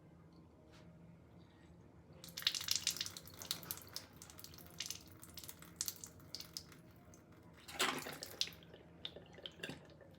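Water splashing and dripping at a sink, in irregular spurts with a louder splash near the end.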